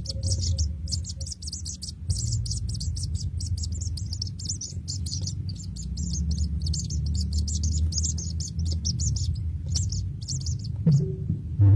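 Baby birds chirping rapidly and continuously in high-pitched peeps, over a steady low hum. The chirping stops about ten seconds in, and a few low knocks follow near the end.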